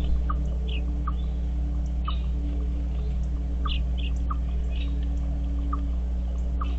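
A bird repeating a short chirp about once a second, with other birds chirping higher now and then, over a steady low hum.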